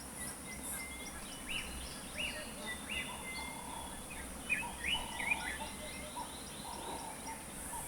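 Several wild birds calling over each other: a run of short, repeated, upward-sweeping notes and lower calls that join in partway through. A high buzz runs steadily behind them.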